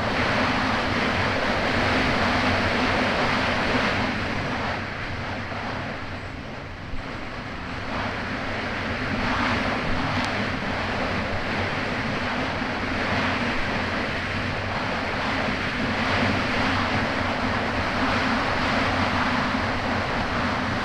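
Kawasaki Ultra 300X jet ski's supercharged four-cylinder engine running steadily under way over choppy water, with rushing water and wind noise on the microphone. The level sags for a couple of seconds midway, with one sharp click about seven seconds in.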